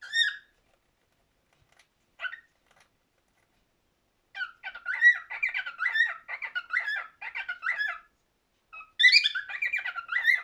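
Cockatiel singing: a short call, a single brief chirp, then a long run of warbling whistled notes from about four seconds in, a short pause, and another burst of song near the end.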